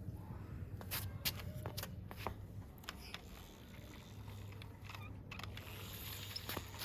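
Light, irregular clicks and scrapes, a few to the second at most, over a low steady hum.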